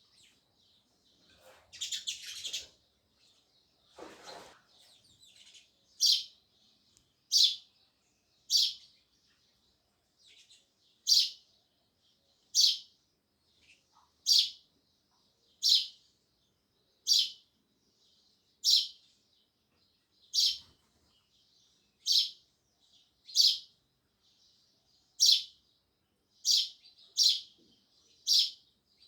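House sparrow chirping: one sharp, loud cheep repeated over and over, about one every second and a half. In the first few seconds there are a couple of short rustling noises before the steady chirping sets in.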